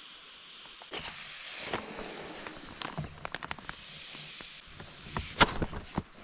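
A person blowing hard by mouth into an air mattress valve: two long rushes of breath, the second shorter, with sharp clicks and crinkles from handling the mattress, the loudest click near the end.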